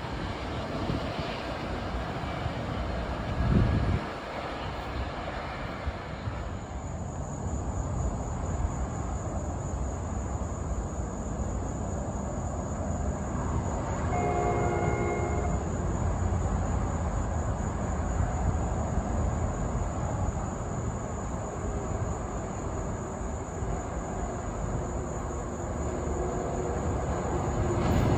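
Steady low rumble of an NJ Transit train, with a brief chord of several steady tones, like a distant horn, about halfway through.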